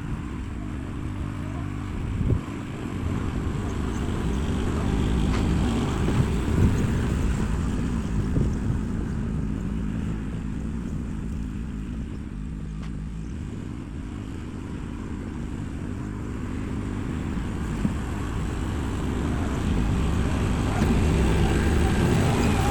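Engine of earth-moving equipment running under varying load, its level swelling and easing, with a few sharp knocks from the machine as it works dirt.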